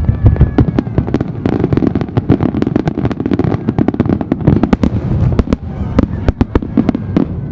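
Fireworks finale: a dense, continuous barrage of shells bursting, with rapid sharp crackles and bangs over a constant low rumble.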